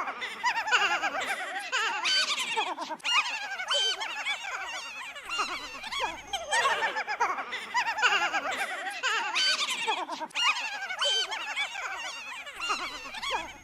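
Troublesome Trucks' laughter sound effect: a chorus of high, overlapping giggles, each falling in pitch, coming round again in waves every couple of seconds.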